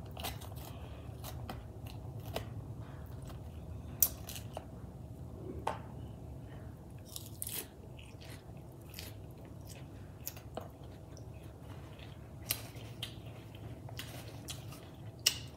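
Close-up mouth sounds of a person chewing crisp iceberg lettuce, with scattered crunchy crackles and a few sharper cracks. A low steady hum runs underneath.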